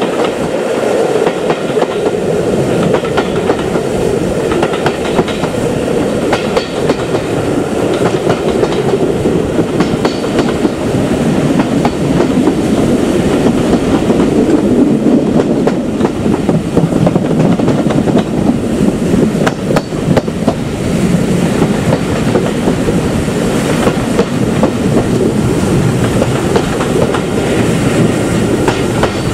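Train running along the track, its wheels clattering steadily over the rail joints.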